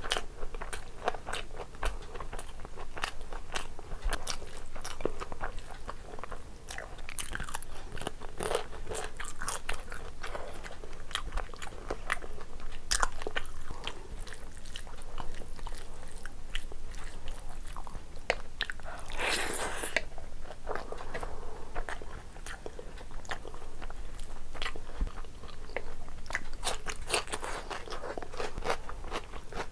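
Close-miked wet chewing and mouth clicks of a mouthful of rice and curry, with the squelch of fingers mixing rice into gravy. A brief louder rush about nineteen seconds in.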